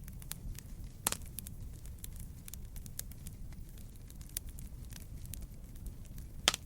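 Wood fire crackling in a fireplace: a steady low rumble of flames with scattered small crackles, and two louder pops, one about a second in and one near the end.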